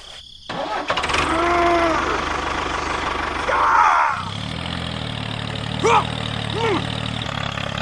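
An engine running, settling into a steady low idle about four seconds in. A few short wordless voice cries sound over it.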